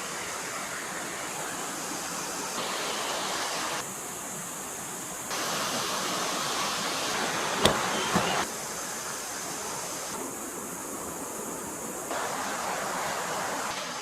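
Stream water rushing over rocks, a steady noise whose tone shifts abruptly several times. A sharp click comes a little past halfway, with a smaller one just after.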